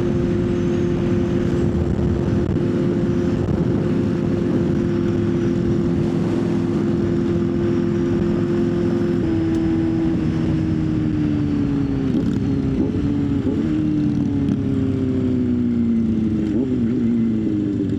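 Motorcycle engine at a steady cruise. About halfway through its note steps down slightly, then from about two-thirds in the revs fall steadily as the bike slows.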